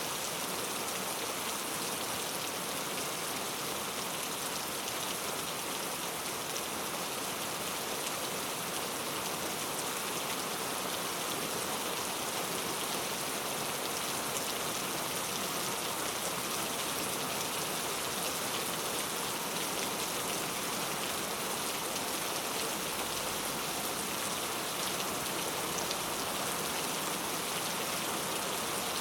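Steady rainfall, a dense even hiss of drops on a surface with fine scattered patter.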